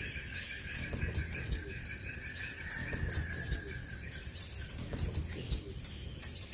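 Crimson sunbird calling: a rapid series of short, very high, sharp chirps, several a second. A steady high tone runs under them and stops about two-thirds of the way through.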